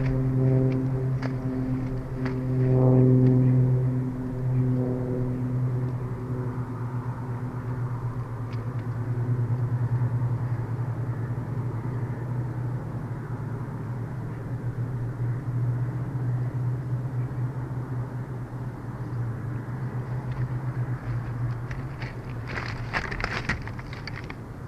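A distant motor drone, loudest about three seconds in and fading away by about six seconds, over a steady low hum and noise. A brief cluster of sharp, higher sounds comes near the end.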